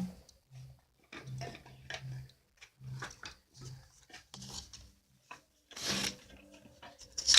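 Irregular short scrapes, rubs and knocks of things being handled, about one or two a second, with a louder scrape about six seconds in.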